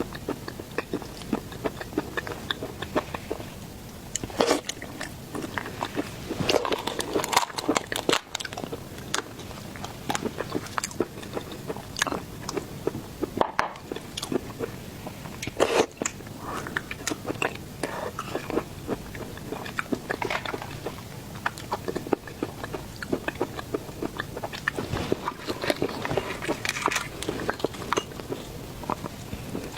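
Close-miked eating of seafood: repeated crunching bites and wet chewing, with sharp irregular crackles from time to time.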